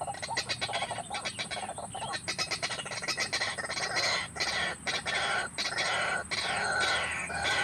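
White-breasted waterhens calling: a fast run of harsh chattering notes, giving way to repeated falling calls in the second half.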